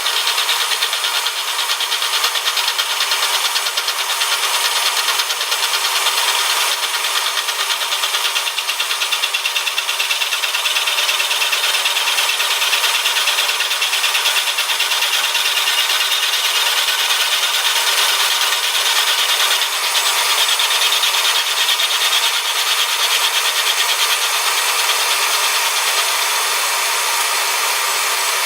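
A Bridgeport milling machine taking a light skim cut across the steel mill-vise table, a steady, high-pitched cutting noise, with a shop fan running. It stops suddenly just after the end.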